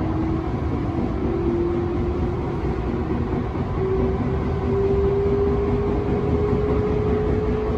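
Electric train running, heard from inside: a steady rumble of the wheels on the rails, with the motor whine slowly rising in pitch as the train gathers speed.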